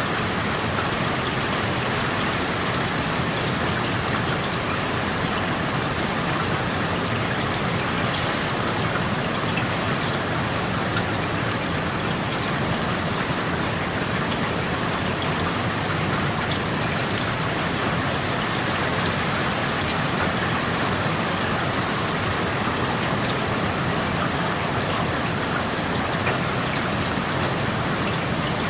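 Steady rain falling and hitting surfaces outside an open window: an even hiss with many small drop ticks scattered through it, unchanging throughout.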